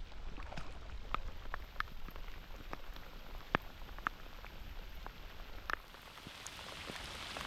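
Rain falling, with separate drops striking close to the microphone several times a second over a steady hiss of rainfall.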